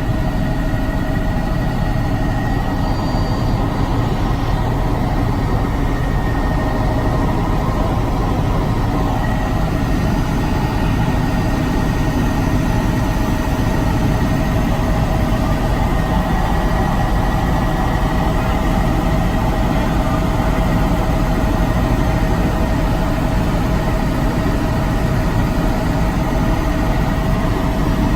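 Helicopter in flight: steady, loud engine and rotor noise with a constant low rumble and a steady high whine.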